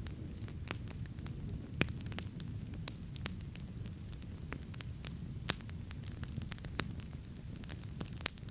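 Wood campfire burning, with a steady low rumble under frequent sharp crackles and pops; the loudest pops come about two seconds in, around five and a half seconds, and near the end.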